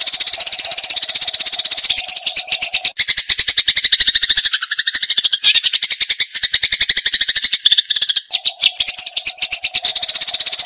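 Eurasian tree sparrow giving a rapid, unbroken run of chattering chirps, the aggressive 'fighting' call. About two seconds in the notes shift lower and stay there for several seconds before returning to the higher chatter near the end.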